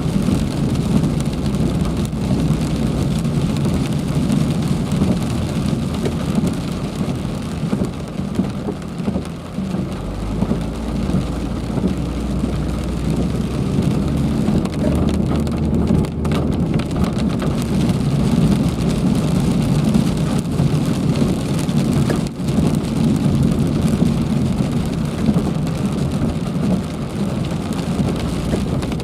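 Heavy rain falling steadily, a dense even hiss. A low rumble comes in around the middle and fades a few seconds later.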